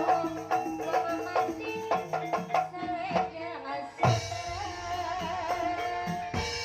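Javanese gamelan-style music with hand-drum strokes over sustained tuned percussion notes; the texture changes abruptly about four seconds in.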